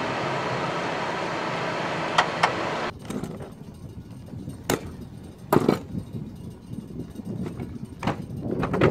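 Steady rushing noise inside a Cessna Citation XLS cockpit during the landing rollout, with speed brakes deployed. It cuts off abruptly about three seconds in, leaving a much quieter background with scattered clicks and knocks.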